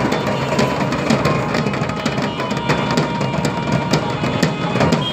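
Drums being beaten, loud and continuous, with many quick strikes.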